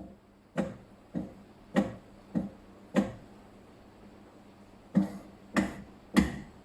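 A series of sharp knocks, each with a short ringing decay: five about two-thirds of a second apart, a pause of about two seconds, then three more at the same pace.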